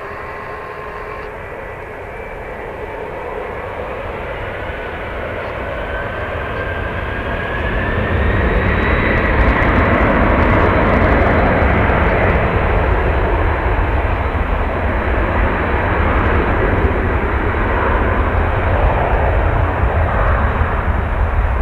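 Jet airliner's engines: a whine rises in pitch, then the engine noise swells into a loud, steady roar about a third of the way in as the aircraft passes. Wind buffets the microphone with a low rumble.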